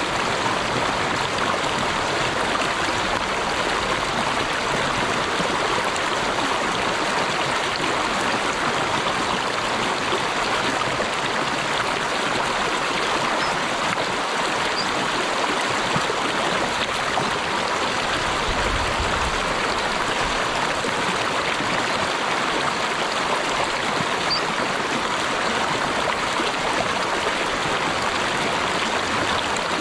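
Water of a stream flowing steadily, an even rushing and gurgling with no breaks.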